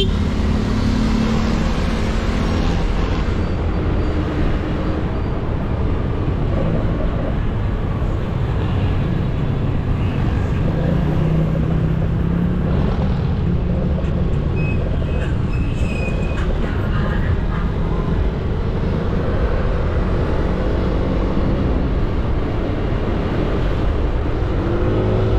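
Motorcycle on the move, its engine running under a steady heavy rumble of wind and road noise, with the engine pitch shifting a little as the speed changes.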